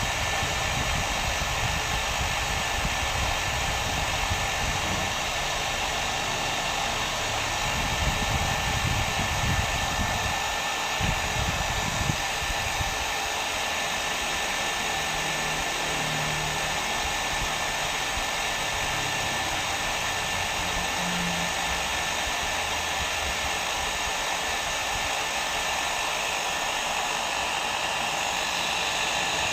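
Hair dryer running steadily: an even rush of blown air with a thin steady whine in it, and a slightly uneven low rumble for a few seconds about a third of the way through.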